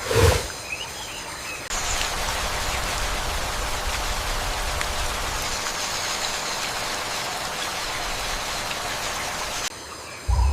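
Steady rain falling, starting abruptly about two seconds in and cutting off just before the end. A brief loud animal call sounds at the very start.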